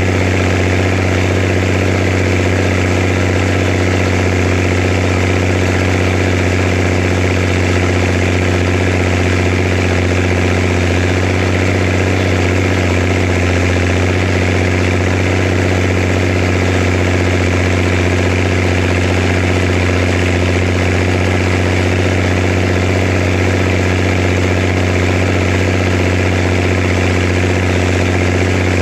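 Zetor Crystal 16145 tractor's diesel engine running steadily at a constant speed, with no change in pitch or loudness.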